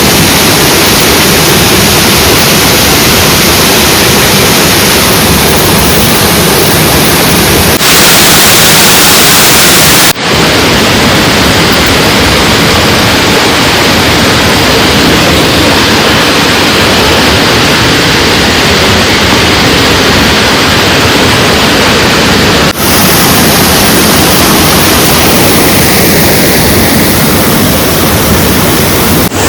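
Loud, steady rush of a waterfall heard up close, an even hiss of falling water with no distinct tones, briefly dipping about 10 and 23 seconds in.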